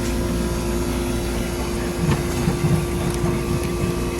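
Steady mechanical hum of running machinery, a constant drone with one strong steady tone, with a few low knocks of handling about two seconds in.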